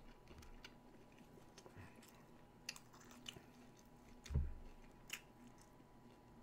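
Quiet chewing of McDonald's chicken nuggets: soft mouth clicks and smacks scattered through, with one brief low thump about four and a half seconds in.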